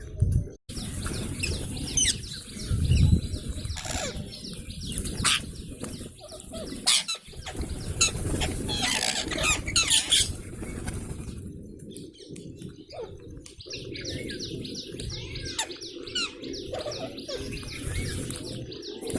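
A flock of parrots chattering, with a dense run of rapid, repeated chirps and a few louder, sharp calls standing out in the first half.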